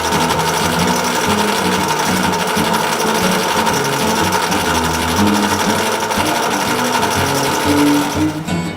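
A small power tool running steadily with a fast, even buzz, cutting off about eight and a half seconds in, over acoustic guitar blues music.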